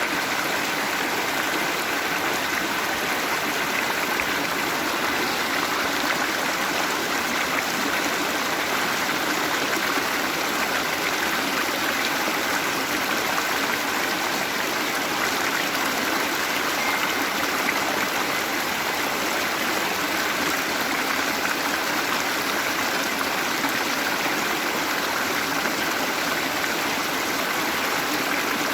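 Waterfall with running water, a steady, unbroken rush and splash.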